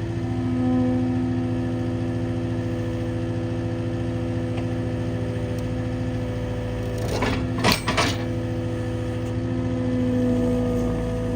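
Skid steer engine running steadily, swelling slightly a couple of times, with a few sharp knocks about seven to eight seconds in.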